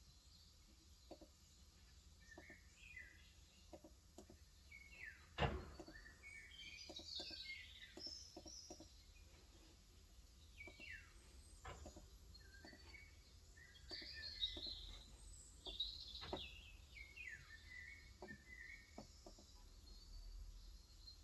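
Faint, irregular keystrokes on a Cox Endeavor electrostatic-capacitive (Topre-style) 35 g tenkeyless keyboard, with one sharper key knock about five seconds in. Birds chirping throughout in short, quick falling notes.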